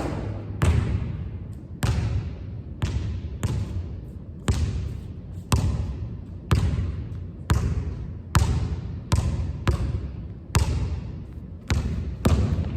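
A basketball being dribbled on a hard court, sharp bounces about once a second with some quicker pairs, each one echoing.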